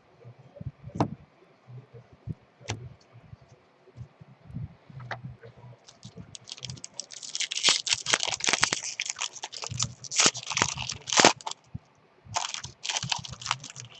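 Foil trading-card pack wrapper being torn open and crinkled, in two stretches of crackly rustling after a few light clicks and taps.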